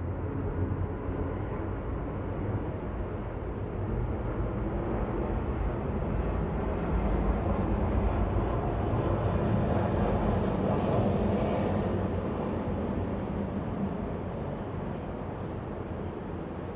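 Low rumbling city background noise that swells to its loudest about halfway through as a vehicle passes, then slowly fades.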